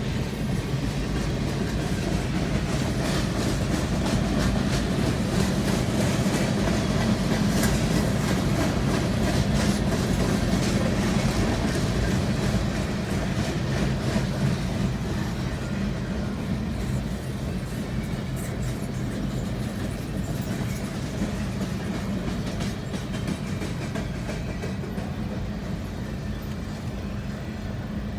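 Freight train cars rolling past, a steady low rumble with the clickety-clack of wheels over rail joints, growing a little louder and then easing off through the second half.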